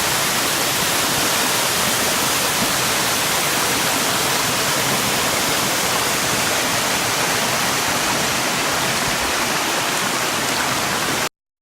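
Steady rushing of a waterfall, a dense unbroken hiss of falling water, cutting off abruptly near the end.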